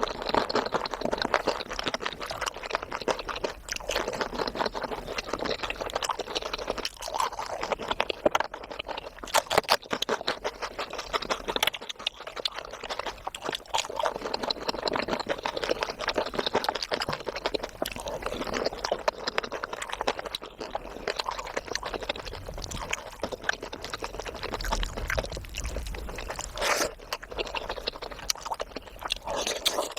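Close-miked eating: steady wet chewing and mouth smacks of curry with rice and puri, a dense run of small clicks and squelches with no pause.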